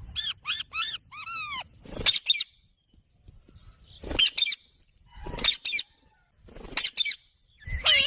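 Pet green parrot calling in a string of short, sharp squawks: three quick ones at the start, then single arching calls that rise and fall in pitch about every second, with brief pauses between them.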